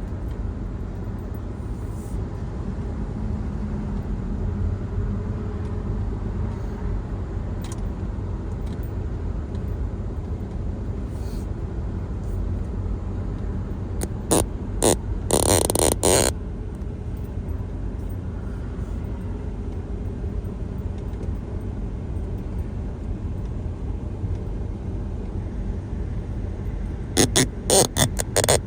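Steady low rumble of a vehicle running, with a few short, loud sharp sounds about halfway through and again near the end.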